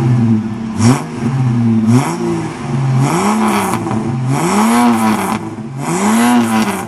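Ford XF Falcon wagon's 4.1-litre straight-six, running on straight LPG, revved repeatedly while stationary. Two quick blips come in the first two seconds, then three longer revs rise and fall back to idle.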